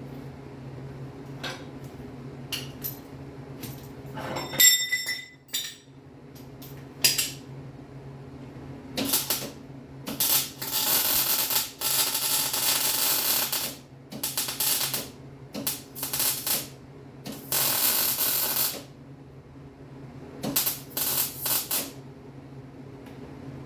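Metal workshop sounds: scattered clicks and a single ringing metal clang, then several short spells of dense crackling, one of about three seconds, of the kind made by MIG welding beads and tacks.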